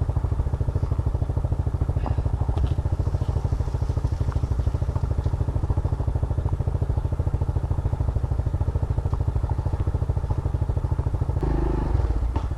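Yamaha Grizzly 700 ATV's single-cylinder four-stroke engine running at a steady, even pulse while riding, briefly louder near the end.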